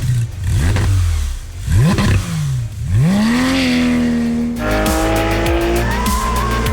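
Porsche 911 GT3 RS naturally aspirated flat-six engine revved in several quick blips that rise and fall in pitch, then held at high revs with its note slowly climbing as it accelerates.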